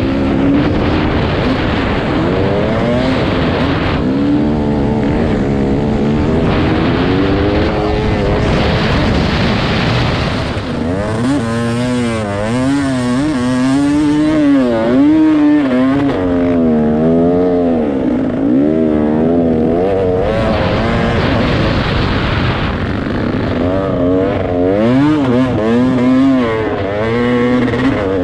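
Dirt bike engine revving up and down again and again under changing throttle, its pitch rising and falling with each burst.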